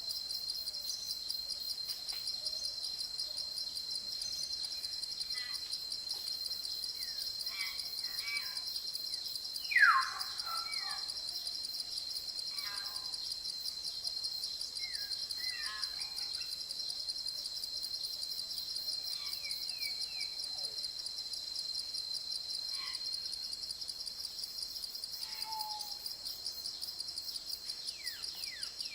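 Forest ambience: a steady, high, pulsing chorus of insects such as crickets, with scattered short bird calls beneath it. The loudest call is a falling whistled note about a third of the way through, and a flurry of quick downward calls comes near the end.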